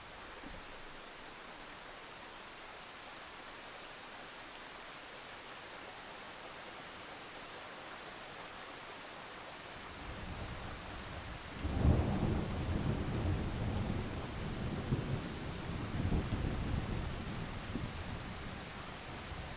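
Steady rain hiss, joined about halfway through by a thunderclap: a low rumble builds, cracks loudly about two seconds later, then rolls on in further surges and slowly fades.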